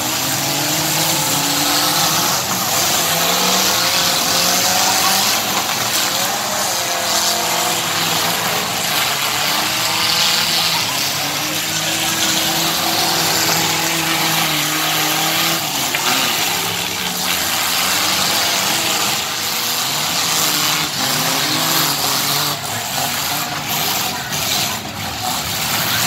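Car and truck engines running and revving unevenly over a thick wash of noise, with a few sharp knocks in the last few seconds.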